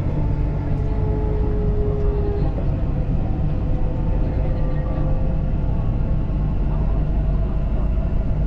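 Dubai Metro train running along the line, heard inside the carriage: a steady, loud low rumble with faint whining tones from the electric drive over it.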